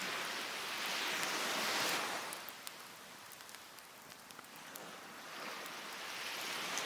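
Sea waves washing onto the beach, a rush that swells in the first two seconds, fades, and builds again near the end. In the lull, a wood fire of cedar and oak logs crackles with small sharp pops.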